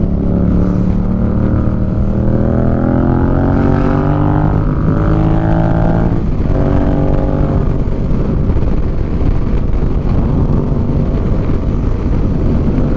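Motorcycle engine heard from the pillion seat at road speed, mixed with wind noise on the microphone. The engine's pitch rises steadily as it accelerates for about six seconds, breaks off briefly, then runs on more evenly.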